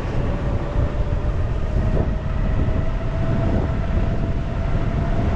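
Vehicle engine running steadily, a constant low rumble with a thin whine that slowly rises a little in pitch.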